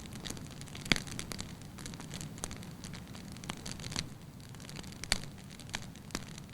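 Wood fire burning in a fireplace: a low steady hiss with irregular sharp crackles and pops of the logs, the loudest pop about a second in and another just after five seconds.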